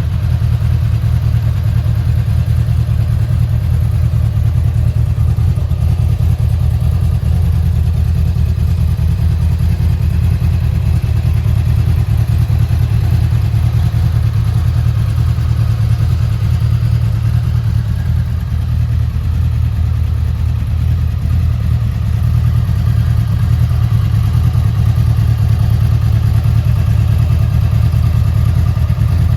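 Honda VFR800F's V4 engine idling steadily, easing off a little about eighteen seconds in before settling back.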